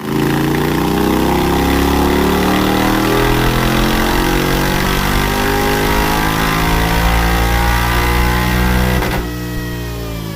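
Honda X-ADV 750's parallel-twin engine through an open Akrapovic exhaust with its dB killer removed, pulling with its pitch rising steadily. About nine seconds in the throttle closes and the engine note falls away.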